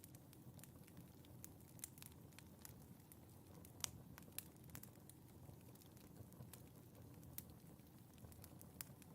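Wood fire in a fireplace crackling faintly, with irregular sharp pops over a soft low noise of the burning; the loudest pop comes about four seconds in.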